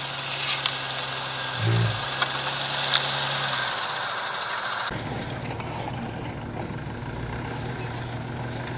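Off-road 4x4 engine running at low revs while crawling over rough ground. About five seconds in, the sound cuts abruptly to a different, rougher engine sound.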